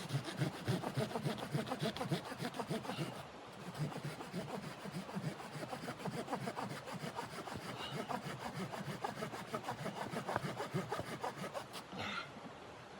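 Hand saw cutting through wood in quick back-and-forth strokes, with a brief pause about three seconds in and again near the end.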